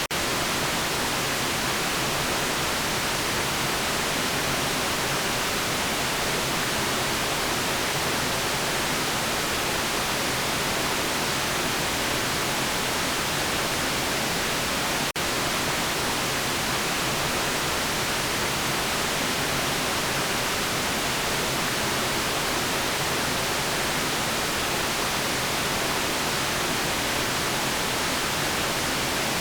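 Steady, even white noise hiss with no change in pitch or level, broken only by a momentary dip about halfway through.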